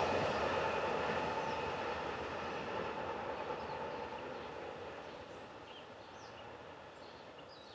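Amtrak passenger train running away into the distance, its wheel-on-rail rumble fading steadily.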